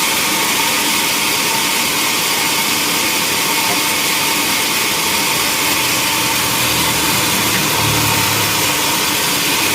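Sawmill machinery running steadily, a constant loud mechanical noise with a few steady tones in it; a low rumble joins in for a couple of seconds near the end.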